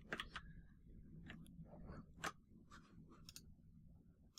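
Faint, scattered computer keyboard key taps: about half a dozen separate clicks spread over a few seconds, quieter and sparser than steady typing.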